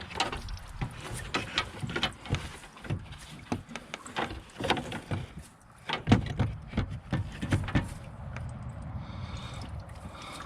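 Quick, irregular knocks and clunks of parts and tools being handled on a van's stripped front end. They stop about eight seconds in, leaving a quieter steady background.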